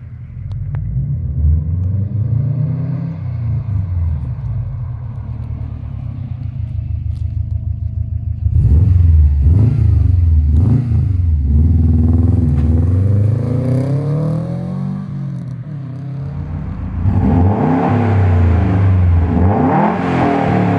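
Subaru WRX STI's turbocharged flat-four boxer engine revving through an aftermarket exhaust, its pitch climbing and dropping again and again in repeated revs, louder from about halfway in.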